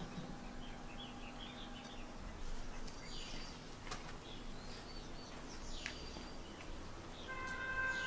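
Faint bird chirps and calls in the background: a few short chirps and falling calls scattered through, and a steadier pitched call starting near the end.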